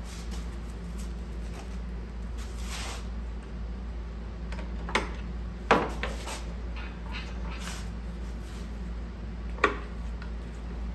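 Metal tools and engine parts being handled, with light clinks and three sharp metallic knocks, the loudest about six and ten seconds in, over a steady low hum.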